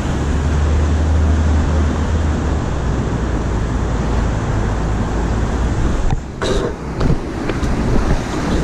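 Steady rushing wind noise on a body-mounted action camera while riding a BMX bike through city traffic, with a deep rumble over the first couple of seconds and a brief drop in level about six seconds in.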